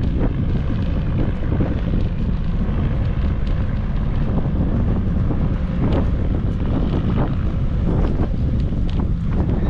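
Wind buffeting a GoPro's microphone during a bike ride: a loud, steady, low rumble with scattered short clicks throughout.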